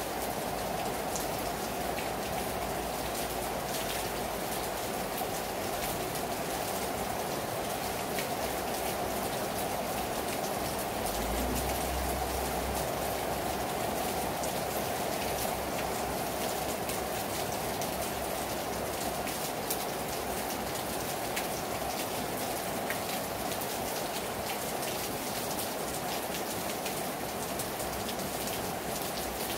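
Heavy rain falling on a terrace: a steady hiss with many individual drops ticking, and a brief low rumble about eleven seconds in.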